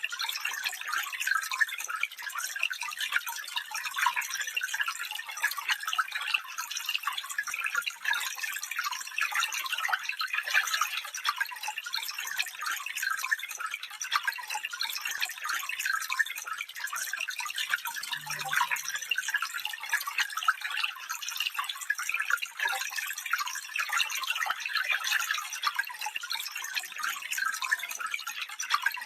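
Shallow stream water trickling and babbling over stones, a steady bright splashing with many small droplet sounds.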